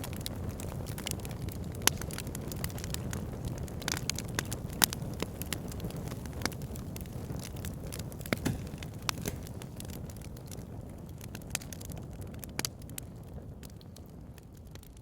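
Fire burning in a fire pit, crackling: many irregular sharp pops over a steady low rush of flame. It grows gradually quieter over the last few seconds.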